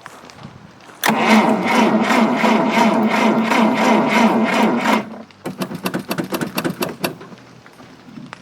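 Starter cranking the 1954 GAZ M20 Pobeda's side-valve four-cylinder engine for about four seconds. It turns over in an even rhythm of roughly three to four pulses a second without firing, then stops abruptly. The battery is weak. A few quieter clicks follow.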